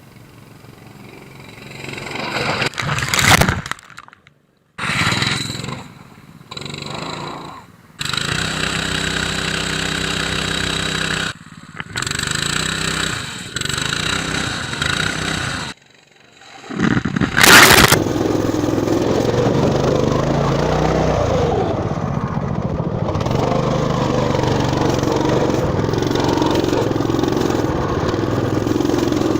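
Small engines of Motoland RT200 mini all-terrain vehicles running, cut together in short pieces, with two brief loud bursts of noise about three seconds in and just after halfway. From about eighteen seconds on, an engine runs steadily.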